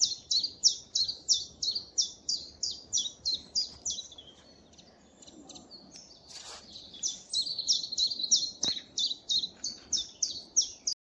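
Common chiffchaff singing: a quick run of repeated high, even notes, about five a second, pausing midway before a second run starts.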